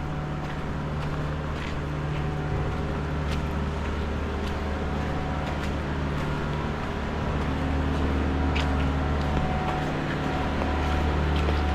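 A motor vehicle's engine running steadily with a low hum that grows a little louder about two-thirds of the way through, with scattered light ticks over it.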